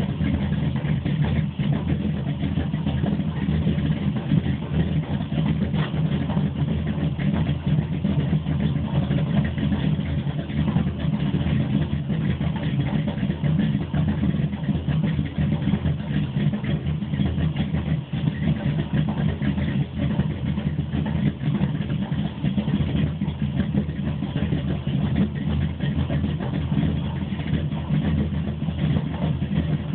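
Chevrolet ZZ502 big-block V8 crate engine with Powerjection III throttle-body fuel injection, idling steadily with no revving.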